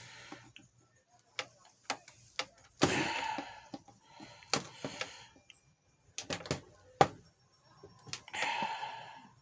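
Irregular plastic clicks and knocks, with a few short scraping bursts, as a replacement carrying handle is pressed and worked against the slots of a Lasko Weather-Shield box fan's plastic housing. The handle is too tight to go in easily.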